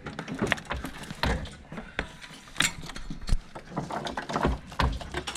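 Irregular metallic clunks, knocks and rattles as parts of a Honda S2000's engine assembly are worked loose and shifted by hand.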